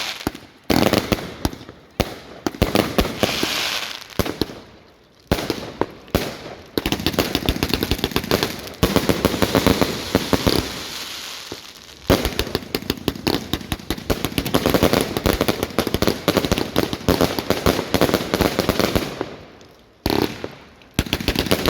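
Fireworks going off in dense volleys of rapid bangs and crackles, one volley after another with short lulls between.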